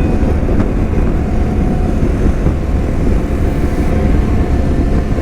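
Motorcycle engine running steadily at cruising speed, with a dense low rumble of engine and road noise.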